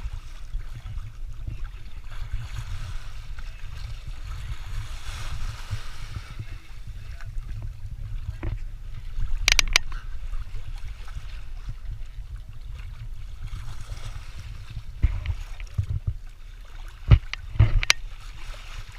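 Yacht under way at sea: steady wind and water noise with a low rumble, broken by a sharp knock about halfway through and two more near the end.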